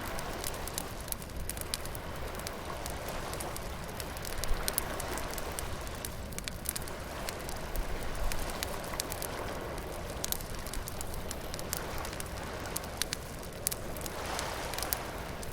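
Beach bonfire crackling, with frequent sharp pops and snaps and one louder pop about four seconds in, over surf washing in and out.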